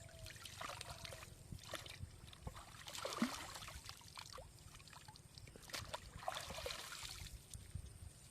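Water splashing and trickling in three short bursts, the middle one the loudest, with small clicks and knocks.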